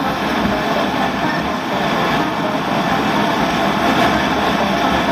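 Sport motorcycle running on the move, a steady dense rumble.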